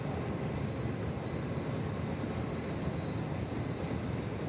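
Potato conveyor machinery running steadily: a dense rumble with a thin, steady high whine above it.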